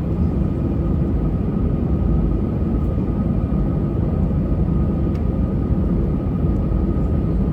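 Steady engine rumble and airflow noise heard inside the passenger cabin of an Airbus A320, with a faint steady whine over the rumble.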